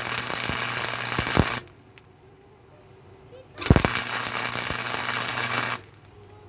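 Harbor Freight flux-core wire-feed welder laying two short stretches of weld on thin truck floor-pan sheet metal, a steady loud crackle. The first stretch stops about one and a half seconds in; the second runs from about three and a half to nearly six seconds.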